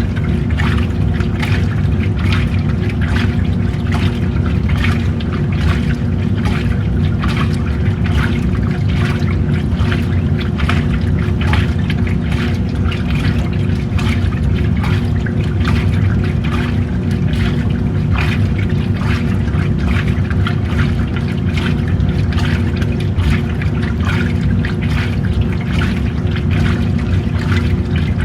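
Old-style washing machine running: a steady motor hum under continuous irregular sloshing and splashing of water in the tub.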